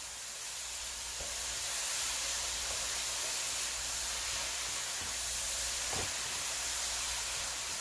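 Grated cauliflower sizzling steadily in hot oil in a pan as it is stirred, with a light knock about six seconds in.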